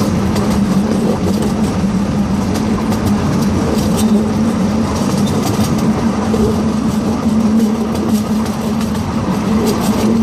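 Miniature zoo train running along its track, heard from an open passenger car: a steady rumble of wheels on rails with a constant hum and scattered clicks.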